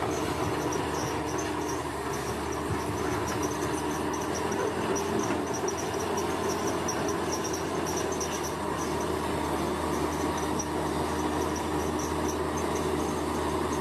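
A steady, unbroken engine drone from heavy construction machinery, with insects chirping in a rapid, high-pitched pulsing trill over it.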